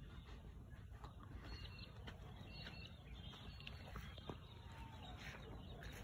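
Faint bird calls, a few short high notes, over a steady low rumble.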